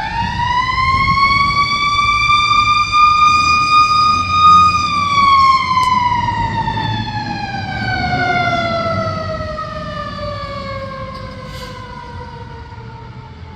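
Fire engine siren sounding one long wail: it winds up to a high pitch in the first few seconds, holds, then slowly winds down for the rest of the stretch. The truck's engine runs underneath as a low rumble.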